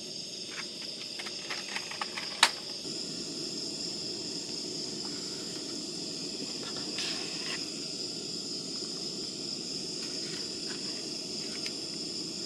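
A steady, high-pitched insect chorus over a low, steady rush. There are a few light clicks early on, and one sharp knock about two and a half seconds in, the kind of sound made by handling cookware.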